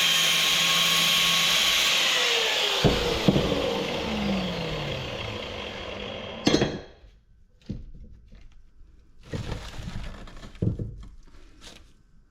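A handheld power tool runs at a steady high whine, then is let off about three seconds in and winds down with falling pitch over a few seconds. A sharp knock follows, then a few scattered knocks and clunks.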